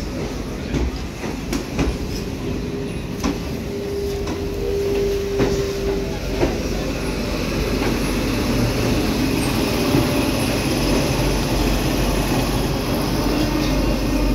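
Suburban electric local train rolling slowly out through station trackwork. Its wheels click sharply over rail joints and points about once a second, and a steady wheel squeal sounds for a few seconds about a third of the way in. The running noise grows louder toward the end.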